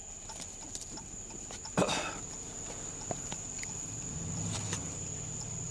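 Footsteps and small knocks from someone moving about, with one louder thud about two seconds in, over a steady high-pitched whine; a low steady hum comes in about four seconds in.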